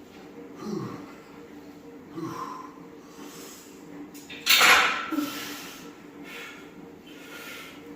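A lifter's effortful grunts and forceful breathing through reps of a heavy close-grip bench press, short falling grunts early on and one loud hard exhale about four and a half seconds in, then quicker, fainter breaths roughly once a second.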